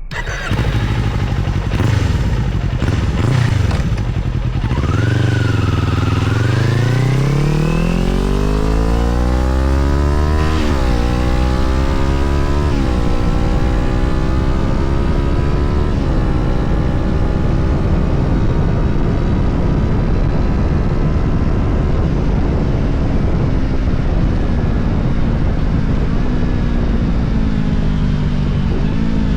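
Kawasaki Ninja 400 parallel-twin engine through a full-titanium 2-into-1 full exhaust, pulling away hard. The pitch climbs steeply, then drops sharply three times as it shifts up through the gears. After that it holds a steady, slowly falling note while cruising.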